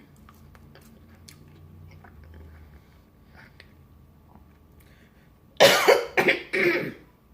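A woman coughs hard three times in quick succession, about five and a half seconds in, clearing a tickle in her throat.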